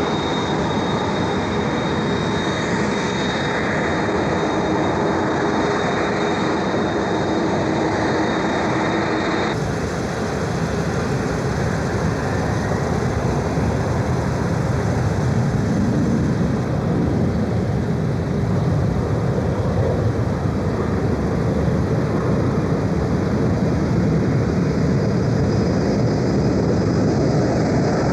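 Jet airliner engines running close by: a steady whine over a loud rumble. About ten seconds in the sound changes abruptly to a heavier, deeper rumble that swells twice.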